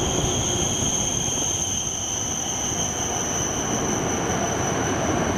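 Shinkansen bullet train moving along the platform: a rumble of running gear under two high, steady whining tones that sink very slightly in pitch.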